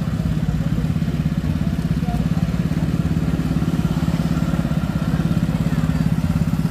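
A three-wheeled cargo motorcycle's single engine running steadily at low speed as it rolls close past, with a fast, even low pulse.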